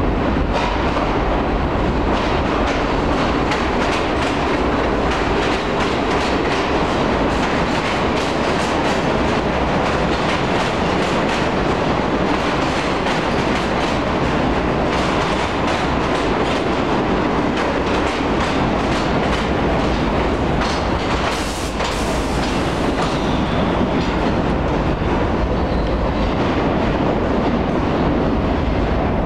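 New York City subway Red Bird garbage train rolling through a station, its wheels clattering steadily over the rail joints.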